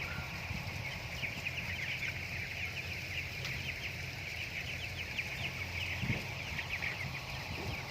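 A flock of broiler chickens peeping, many short high calls overlapping without a break, over a low steady hum.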